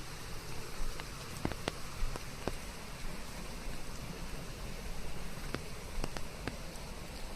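Steady rain with a hiss of white noise beneath it, individual drops ticking sharply now and then over the even wash.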